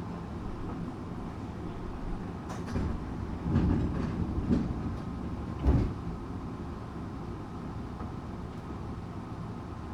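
Tokyu 8500 series electric train heard from inside the car: a steady rolling rumble, with a few louder knocks from about three to six seconds in.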